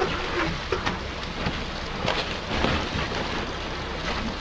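Wind and water noise out on the water, a steady rush with irregular crackling gusts on the microphone.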